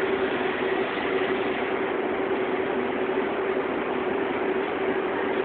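Fully automatic fabric spreading machine running: an even mechanical hum with one steady tone through it.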